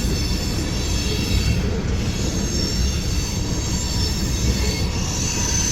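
Freight train cars rolling past: a steady rumble of wheels on rail with a thin, high-pitched wheel squeal over it.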